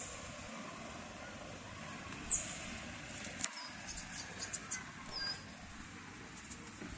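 A bird's short, very high descending call, heard twice about two seconds apart, over a steady outdoor hiss. A few light clicks and small high chirps fall in the middle.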